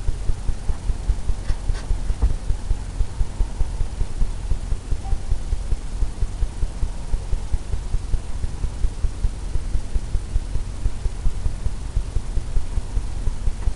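A paintbrush tapping oil paint onto a stretched canvas, giving a steady run of dull low thumps, about four a second.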